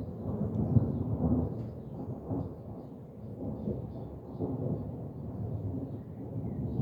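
Rain falling under a low, uneven rumble of thunder that swells and fades.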